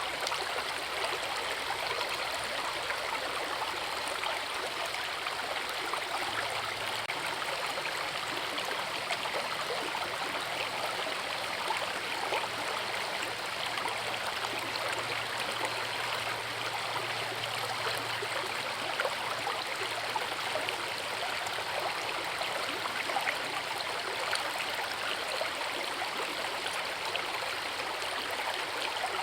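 A forest river's water rushing and splashing over rocks in a steady, even flow.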